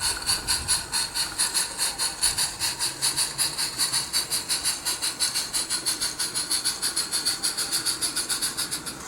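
Small live-steam garden railway locomotive running, its exhaust chuffing in a rapid, even beat over a hiss of steam. The beat grows gradually weaker towards the end.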